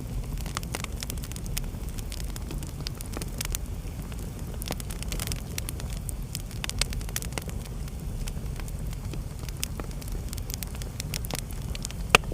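Wood fire burning in a fireplace: a steady low rumble of flames with scattered sharp crackles and pops, and one loud pop near the end.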